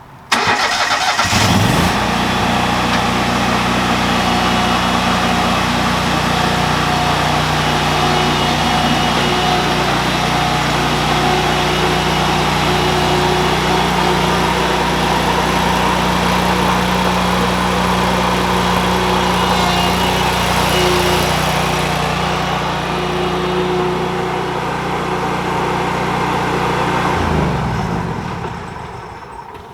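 36-inch lawn mower's small engine starting abruptly, rising to speed, running steadily, then shut off about 27 seconds in and winding down.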